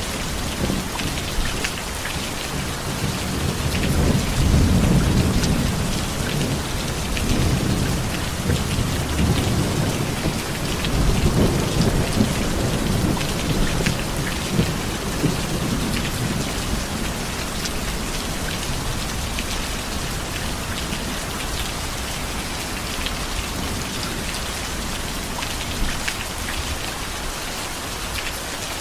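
Heavy steady rain with close drop ticks on a surface, and rolling thunder: a low rumble swells a few seconds in and again around the middle, then fades, leaving the rain alone.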